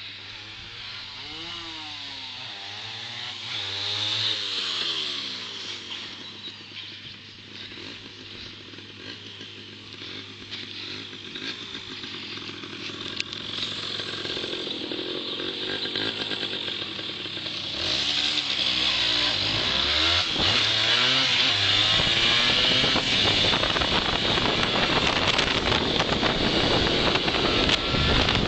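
Honda MBX 80 two-stroke motorcycle engine running while the bike is ridden, with wind buffeting the microphone. It rises to a louder, steady run from about 18 s in. A vehicle passes nearby and swells briefly about four seconds in.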